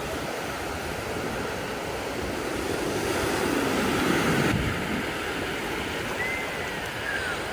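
Ocean surf washing onto the beach, a steady rush that swells as a wave comes in a few seconds in, with some wind on the microphone.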